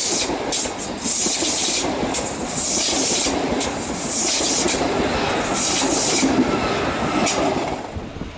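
ETR 610 tilting electric multiple unit rolling slowly past close by along the platform: a steady rushing of wheels on rail with repeated clacks over the rail joints. The sound drops away suddenly near the end.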